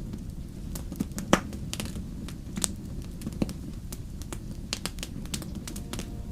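Wood fire crackling in a fireplace: irregular sharp pops and snaps over a low steady rumble of burning, the loudest pop just over a second in.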